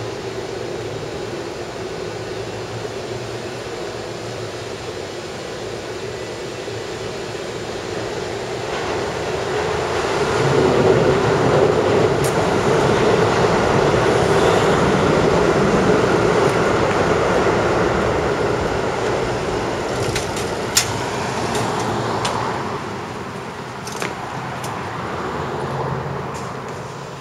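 Keihan Main Line electric train running along the elevated concrete viaduct. Its rumble swells about eight seconds in, holds strong for some ten seconds, then fades away near the end, with a few sharp clicks along the way.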